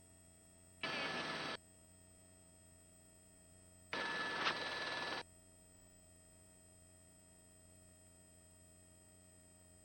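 Helicopter headset intercom feed: a faint steady electrical hum, broken twice by loud bursts of buzzy hiss that switch on and off abruptly, a short one about a second in and a longer one about four seconds in.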